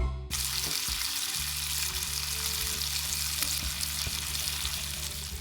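Food sizzling steadily in a frying pan, with a steady low hum underneath from about a second and a half in.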